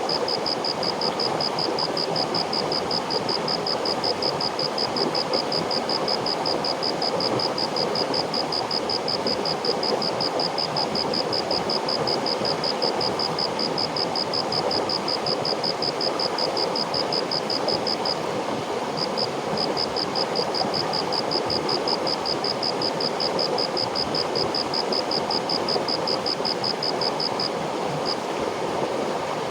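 River water flowing steadily, with a high-pitched chirp repeating several times a second over it that breaks off briefly after about 18 seconds and stops near the end.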